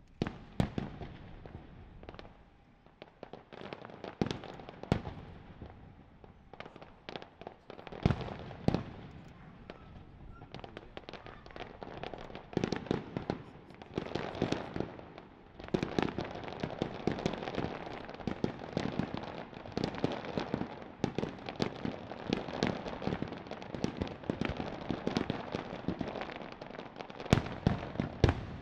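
Fireworks display: aerial shells going off in rapid volleys of sharp bangs and crackles, with brief lulls between, the loudest bangs near the end.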